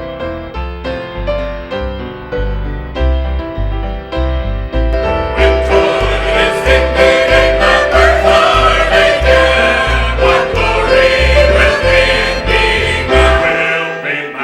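A gospel hymn on piano or keyboard with a steady bass line, joined about five seconds in by a group of voices singing together, which makes the music fuller and louder.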